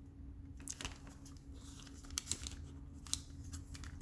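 Plastic gauge head being pushed forward and down onto the gauge bracket: irregular light clicks and creaks of plastic parts, with a few sharper ticks about two and three seconds in.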